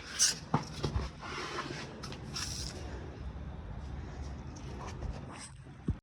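A 2009 Acura MDX running at low speed, a steady low rumble with a few short rattling knocks in the first second and a sharp click near the end. This is the low-speed rattle at 1500–2000 rpm.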